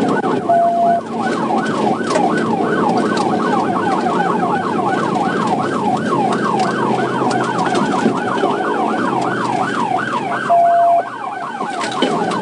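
Police car siren on a fast yelp, warbling up and down about three to four times a second over the cruiser's engine and road noise during a pursuit. A short steady beep sounds twice, about half a second in and near the end.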